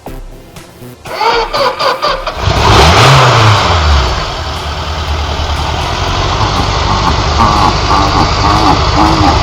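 Suzuki GSX750F Katana's inline-four engine cranked on the electric starter with the choke on: it catches about two and a half seconds in, revs up and back down once, then settles into a steady idle.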